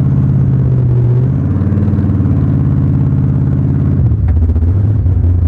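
A large engine running loudly. Its pitch shifts slightly about a second in and drops to a lower, steadier note about four seconds in, as if the revs fall back toward idle.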